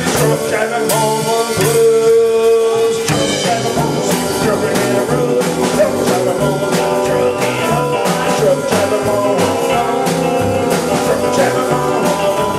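Rock band playing an instrumental break in a country-blues style: guitar over a steady bass line and drums, with one note held for about a second near two seconds in.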